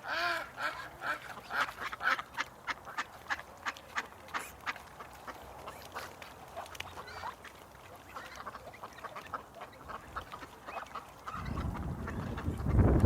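Ducks quacking in a quick series of short calls over the first half, then more sparsely. Near the end a low rumble comes in and grows louder.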